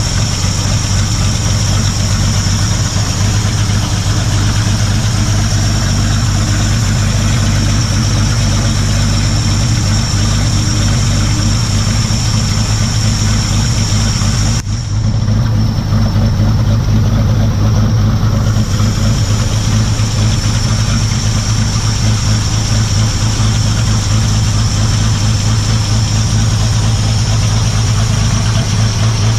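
1946 Chevrolet pickup's straight-six engine idling steadily, with a short break in the sound about halfway through.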